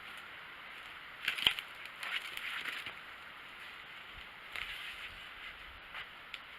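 A few clusters of brief crunching, crackling noises, about a second in, around two seconds and near five seconds, over a steady faint hiss.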